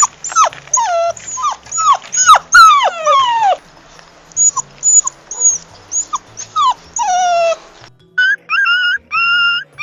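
Puppy whimpering and yelping: rapid, high-pitched cries that fall in pitch, crowded together at first, then sparser, ending in one longer falling whine. About eight seconds in, a different sound takes over: a series of short, steady, high-pitched notes about twice a second.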